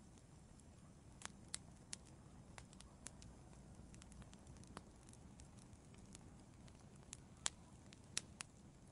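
Wood fire burning in an outdoor fireplace: a soft low rumble with irregular sharp crackles and pops of burning wood, a few louder snaps near the end.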